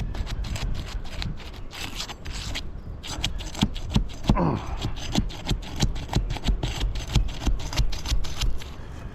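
Roof shingle being pried and worked loose against its tight adhesive seal: quick, irregular scraping and clicking strokes.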